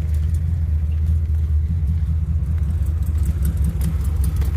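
1955 Chevrolet sedan delivery's engine idling with a steady, pulsing low rumble. The engine is worn out and has a lifter noise that is real quiet.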